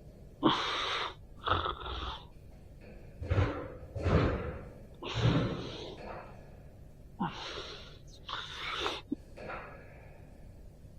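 A person breathing in short, forceful, noisy breaths, about eight of them at uneven intervals.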